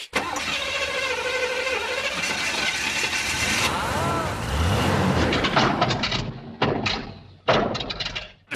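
An old car's engine running, with a brief rise and fall in pitch about four seconds in, then the sound cutting in and out near the end.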